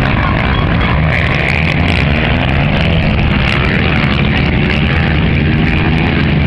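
Rally motorcycle engine running as the bike crosses a sand dune, a loud steady rumble with faint rising and falling pitch in the middle.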